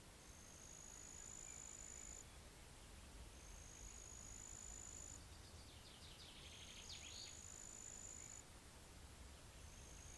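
Faint pond-side ambience: an insect, cricket-like, gives high, steady-pitched trills of about two seconds each, repeating every three seconds or so. A bird chirps briefly about seven seconds in, over a faint low rumble of wind.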